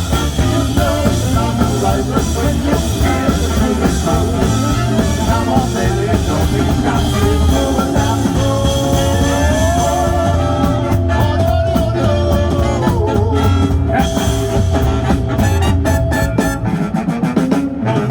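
A band playing a song with guitar and drums, with some held notes in the middle.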